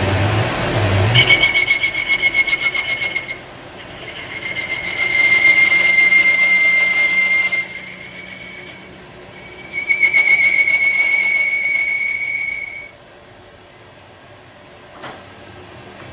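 A high-pitched mechanical whine in three stretches of a few seconds each; the first pulses rapidly and the other two hold steady. A single sharp click comes near the end.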